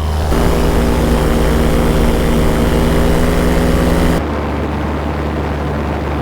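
Paramotor engine and propeller running at a steady pitch. About four seconds in, the sound abruptly turns duller and a little quieter.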